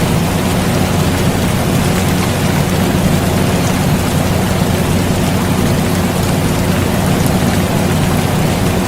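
Air conditioner running with a steady low hum, mixed with steady rain.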